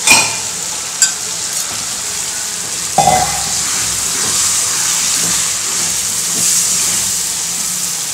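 Button mushrooms, just added to sautéed onion and tomato, sizzling in oil in a metal kadai as a wooden spatula stirs them. The spatula knocks against the pan a few times, loudest about three seconds in.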